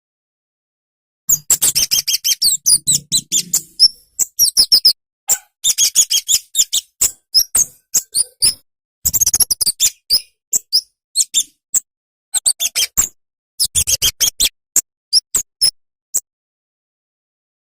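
Kemade (cabe-cabean) bird singing: runs of rapid, high, sharp chirps and twitters lasting a few seconds each, broken by short pauses. The first pause is about a second long at the start, and a longer pause comes near the end.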